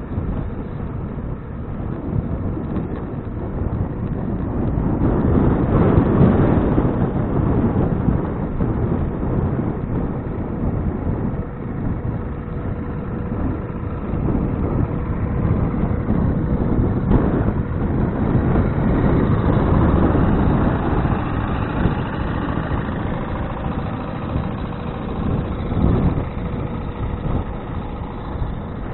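Wind and road noise on a bicycle-mounted action camera while riding, with motor traffic passing; the noise swells louder about six seconds in and again around twenty seconds.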